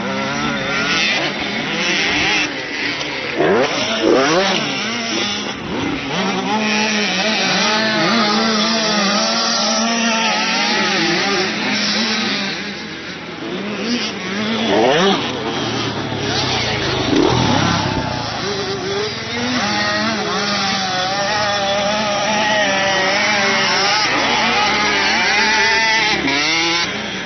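Motocross bike engines running hard on a dirt track, several at once, their pitch rising and falling as the riders open and close the throttle.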